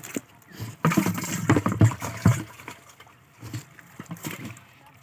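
Water splashing and sloshing in shallow water: a loud run of splashes from about a second in, lasting around a second and a half, then a few smaller splashes.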